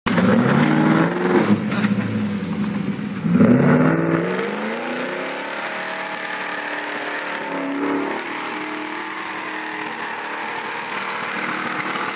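Off-road 4x4's engine revving hard as it is driven through deep ruts. The revs climb sharply about three seconds in, ease off, rise briefly again near the middle, then hold fairly steady.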